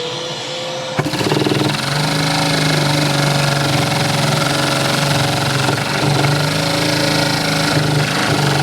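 A vacuum cleaner motor running, and about a second in a LEGO vacuum-powered piston engine starting up and running fast with a dense, steady mechanical sound over the vacuum's drone.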